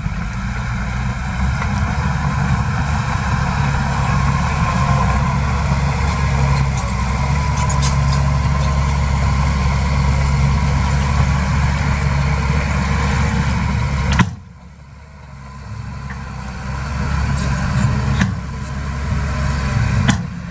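Heavy construction machine's diesel engine running steadily at a low, even pitch. About two-thirds of the way through the sound cuts off abruptly with a click, then a quieter engine sound builds up again.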